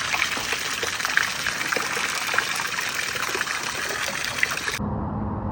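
Water running and splashing in a steady trickling rush, cut off suddenly near the end by background music.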